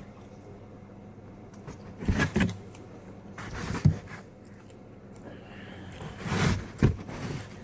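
Someone eating pizza close to the microphone: bites and chewing in four short bursts, two of them ending in a sharp click.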